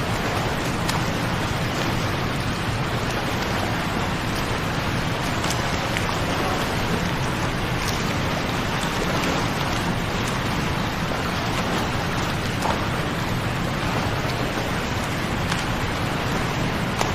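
Waterfall: a steady rush of falling water, with small splashes now and then.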